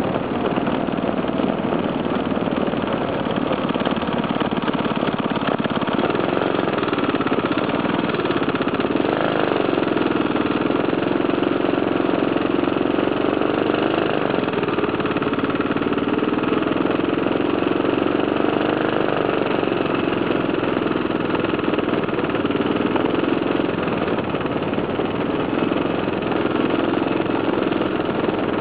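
Briggs & Stratton 5 hp single-cylinder four-stroke engine running on a homemade motorcycle under way, its note rising and falling repeatedly with the throttle.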